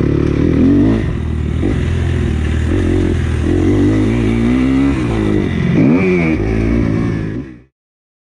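Motocross bike engine revving up and down as it is ridden, pitch climbing and dropping over and over with some clatter, then cut off abruptly near the end.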